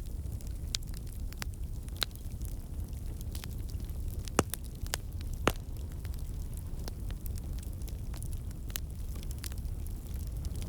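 Wood fire crackling: a steady low rumble of burning with irregular sharp pops and snaps, the two loudest pops about halfway through.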